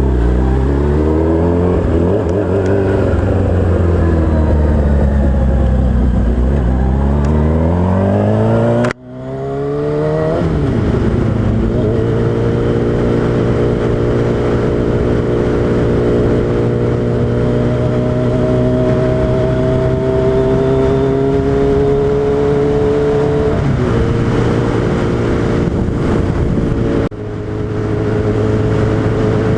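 Suzuki Hayabusa's inline-four engine running in low gear, revs rising and falling for the first several seconds, then holding a steady note that slowly climbs in pitch. The sound drops out abruptly about nine seconds in and again near the end.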